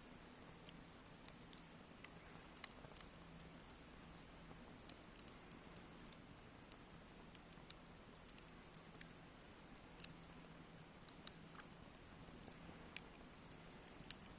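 Campfire crackling: irregular sharp pops and snaps of burning wood over a faint steady hiss.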